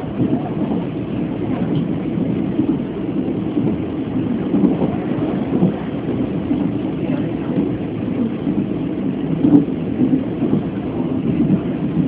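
Steady rumble of a Chu-Kuang express passenger carriage running along the track, heard from inside the car, with one louder knock about nine and a half seconds in.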